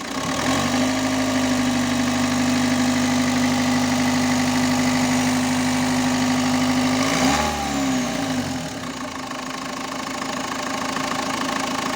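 Renault 1.9 dCi four-cylinder turbodiesel engine idling steadily with no air filter fitted. Its speed shifts briefly about seven seconds in, then it settles again.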